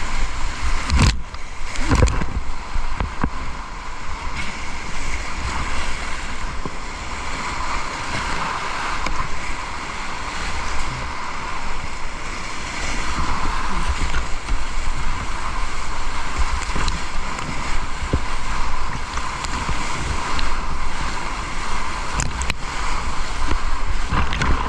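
Fast-flowing river water rushing steadily, with a low rumble of wind on the microphone. A couple of sharp knocks come about one and two seconds in.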